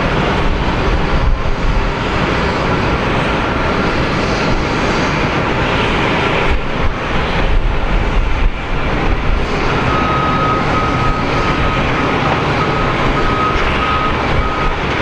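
Boeing 777-200 jet engines running with a loud, steady rush; a thin, steady high whine comes in about ten seconds in.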